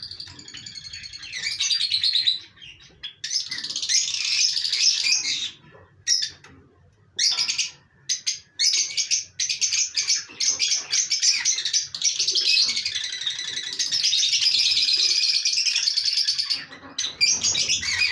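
Pet birds chirping, a dense high-pitched chatter with short pauses a few seconds in and again around six seconds, then a long unbroken run of chirping.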